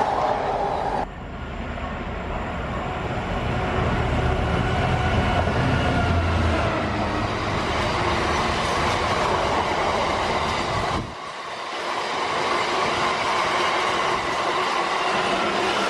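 Freight train passing, with a steady rail running noise and a deeper rumble a few seconds in. The sound drops abruptly about a second in and again about eleven seconds in.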